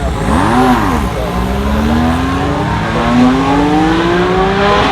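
Lanzante Porsche 930 TAG Turbo's turbocharged 1.5-litre F1 V6 blipped once, rising and falling, then accelerating hard with its pitch climbing steadily for about three and a half seconds before it drops off near the end.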